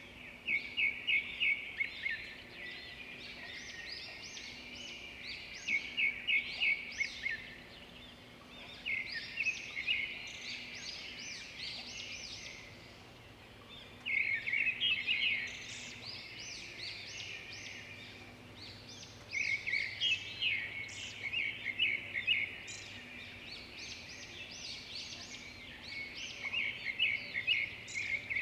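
Zebra finches calling: bursts of rapid, high chirps every four to five seconds, with softer chirping in between.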